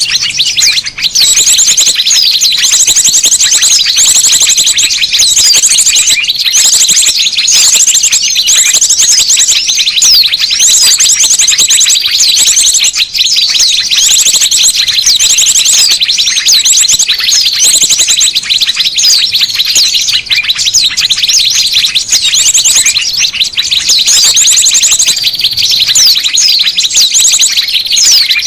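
Dense, loud chattering and chirping of many small birds, with rapid high trills repeating throughout: a bird-lure (pikat) recording of noisy small birds, played to call small birds in.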